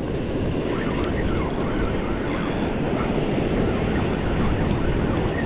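Steady rushing noise of surf washing over the shore rocks, mixed with wind on the microphone.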